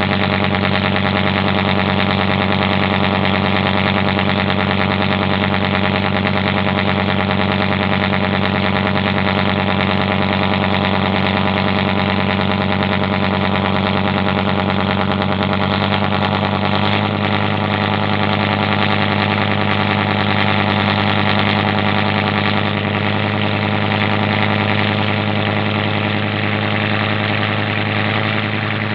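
Boat engine running steadily at a constant speed, with a slight change in its low note a little past halfway.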